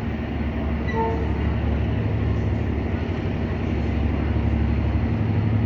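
EMD GR12W diesel-electric locomotive running under load with a steady low engine rumble, a short tone sounding briefly about a second in.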